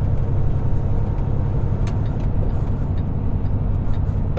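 Semi truck's diesel engine running at low road speed, heard inside the cab as a steady low drone, with a short click about two seconds in.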